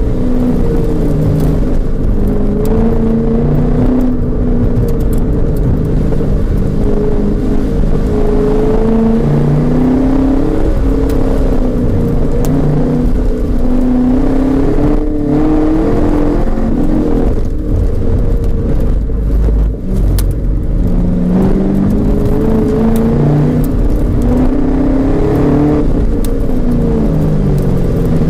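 Chevrolet Camaro 1LE's V8 engine heard from inside the cabin while being driven hard. The engine note rises and falls over and over as the driver accelerates and lifts between corners.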